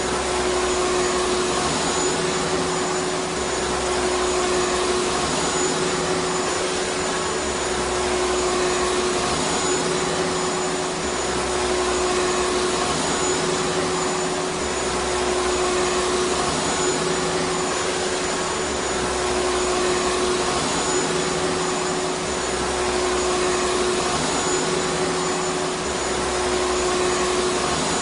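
Vacuum cleaner motor running continuously: a steady whirring rush with a constant hum, its level and low end swelling and easing gently every few seconds.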